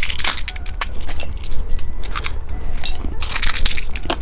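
Close-miked crackling and crunching of candy, a dense run of small sharp clicks.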